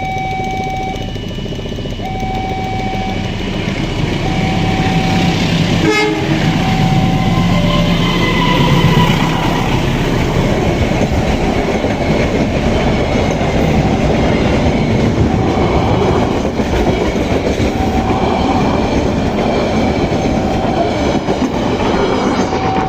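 The Matarmaja diesel-hauled passenger train passes close by with a steady rumble of wheels on rail, and its horn sounds between about 4 and 10 s. A sharp knock comes about 6 s in. Through it, a level-crossing alarm beeps on and off about once a second.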